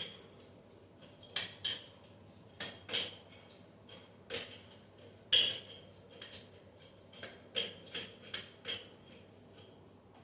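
Irregular metallic clinks and knocks, about fifteen in ten seconds, the louder ones with a short ring: small metal objects being handled and knocked together.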